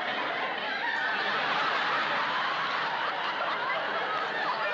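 Sitcom audience laughing steadily, many voices together in a long, sustained laugh.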